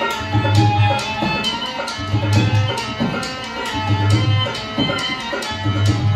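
Rajasthani folk music for a snake-charmer puppet act: a hand drum keeps a steady rhythm with a deep beat about every two seconds under a sustained, reedy snake-charmer melody.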